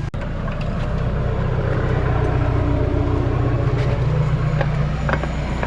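Motorcycle engine running steadily on the move, a low hum under an even rushing hiss.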